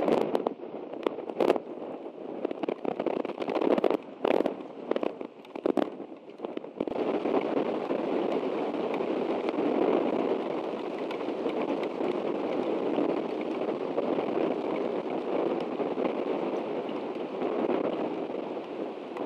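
Rain on a nest camera's microphone: sharp crackling taps of drops striking close by for the first several seconds, then from about seven seconds in a steady, even hiss of rainfall.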